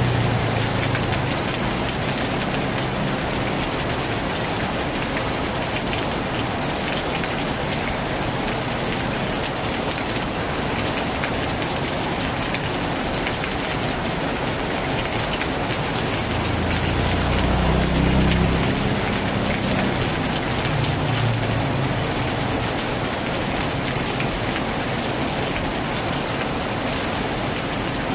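Heavy rain pouring steadily on a tin roof. A low rumble swells and fades about two-thirds of the way through.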